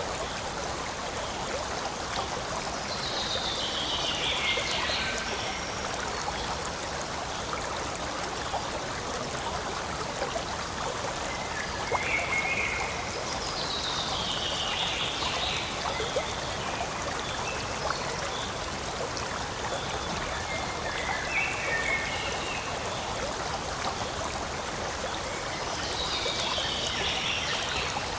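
Forest stream flowing and trickling steadily. Over it, a high call that falls in pitch comes three times, about every eleven seconds, with shorter chirps in between.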